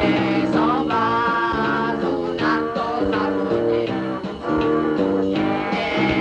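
Lo-fi punk rock band playing, guitar lines moving in steps over bass and drums, recorded on a dictaphone so the sound is thin and dull at the top.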